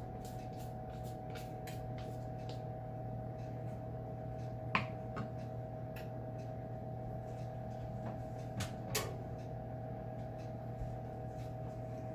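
Chopped onion and celery, still wet from the freezer, sizzling and crackling in melted butter in a pan, over a steady hum. Two sharper knocks, about five and nine seconds in.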